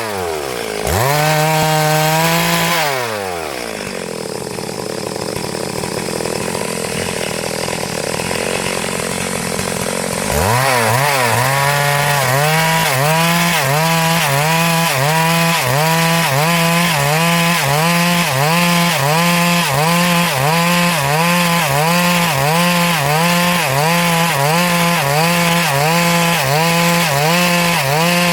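Stihl MS382 two-stroke chainsaw ripping a log lengthwise. It revs high at first, then drops to a lower speed for several seconds. About ten seconds in it comes back up to full throttle, and its pitch then dips and recovers about once a second as the chain bites into the cut.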